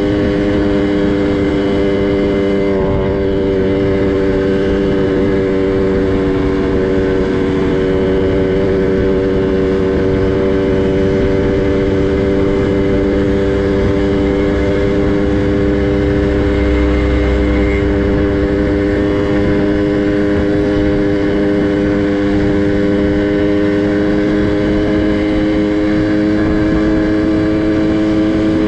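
Small two-stroke minibike engine running at a steady, nearly constant speed while being ridden. A brief low rumble comes about halfway through.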